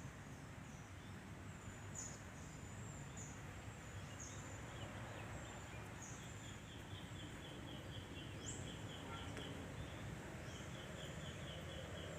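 Outdoor background noise with birds calling: short high chirps that drop in pitch, every second or two, and in the second half a run of quick repeated high notes, about four a second.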